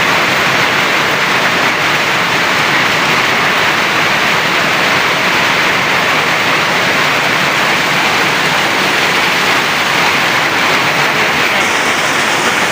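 Heavy rain pouring down, a loud, steady rush of water.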